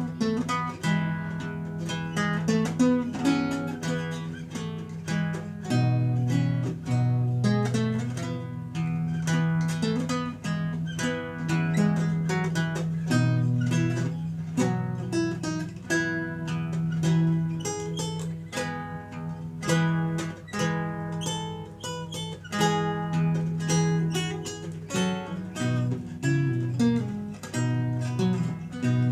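Renaissance lute played solo: a steady stream of plucked notes, a melody line moving over held low bass notes.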